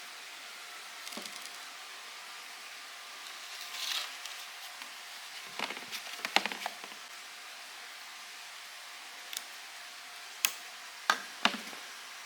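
Scattered sharp knocks and clicks over a steady hiss: a cluster about six seconds in, then three sharp knocks near the end.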